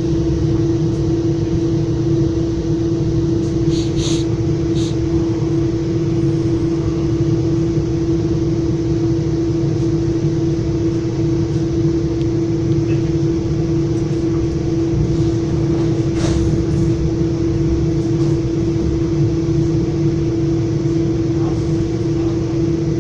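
Interior noise of a Metra commuter train car: a steady low rumble with a constant hum, broken by a few faint clicks about four seconds in and again around sixteen seconds.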